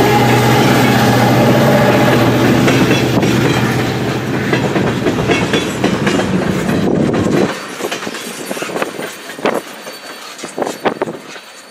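Freight train tank cars rolling past, their wheels clacking over rail joints over a heavy rumble with a steady low drone. About seven and a half seconds in the rumble drops away suddenly, leaving scattered wheel clacks that thin out and fade as the end of the train goes by.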